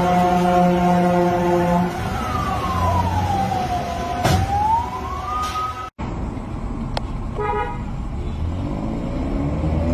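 A steady blaring tone for about two seconds, then one slow siren wail that falls and rises again. After a cut, a short horn toot is heard, then a vehicle engine rising in pitch as it speeds up.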